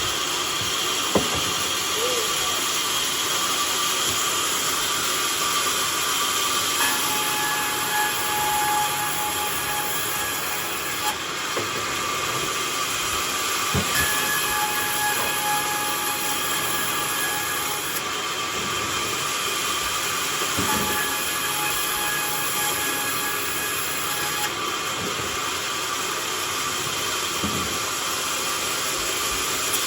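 A homemade sawmill running steadily while it saws a log. A pitched whine comes in for a few seconds at a time, about every seven seconds.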